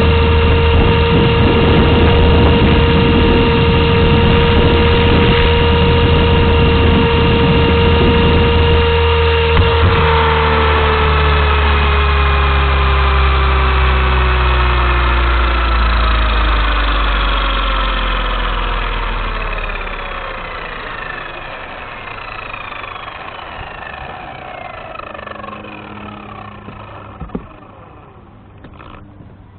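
Blade 230S V2 RC helicopter's electric motor and rotor heard from the onboard camera: a steady whine at flying head speed for about ten seconds. The whine then drops slowly and smoothly in pitch and loudness as the rotor spools down, the sign that the throttle has been cut at the end of the flight. There is a single small click near the end.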